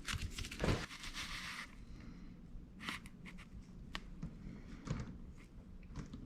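Handling noise: a scratchy rustle and scraping in the first couple of seconds, then scattered light clicks and taps as a cut exhaust pipe section with a hardened FiberFix patch is handled.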